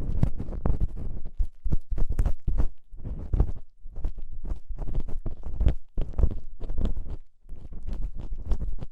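Ear-cleaning ASMR: an ear-cleaning tool scraping and rubbing at a microphone's ear, a dense, irregular run of scratchy clicks and rustles with low thumps.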